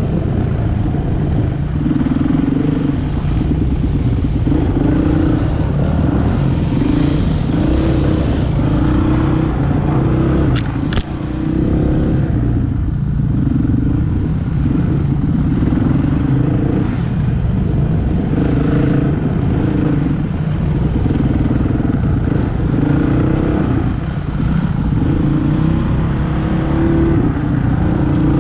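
Motorcycle engine running as it is ridden, its pitch repeatedly rising and falling with the throttle. A brief sharp click comes about eleven seconds in.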